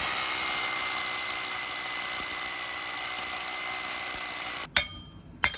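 Power driver running steadily with a constant high whine, driving a fastener into a column bracket, and stopping suddenly near the end. Two sharp clicks follow.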